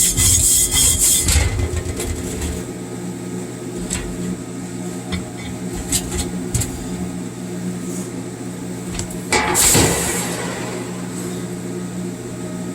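Steady hum of an arc welding machine running, with a quick run of metal clatter in the first second or so and a short hissing scrape about ten seconds in.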